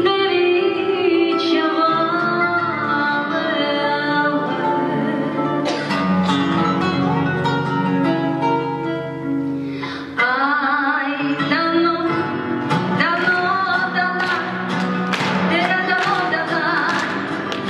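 Singing to guitar accompaniment in Russian Gypsy style, with strummed chords. There is a short break in the singing about ten seconds in, and quick strums mark the rhythm through the second half.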